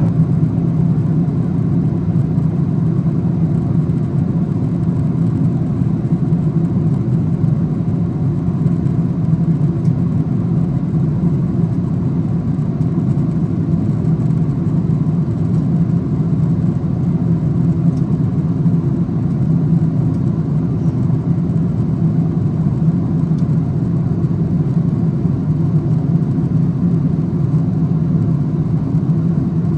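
Steady cabin drone of a Boeing 777-200ER in climb: twin turbofan engines and airflow over the fuselage, heard from an economy window seat as an even, low rumbling hum with no change in pitch.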